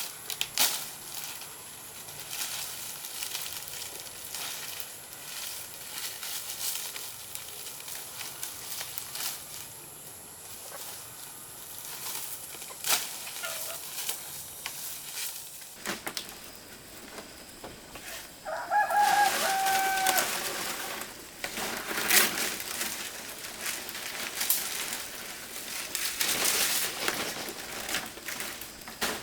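A rooster crows once, a call of about two seconds about two-thirds of the way through. Scattered knocks and rustling run around it.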